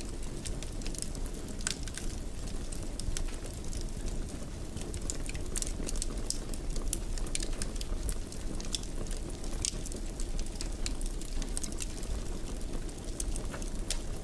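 Wood fire burning in a fireplace: a steady low rumble with frequent small sharp crackles and pops.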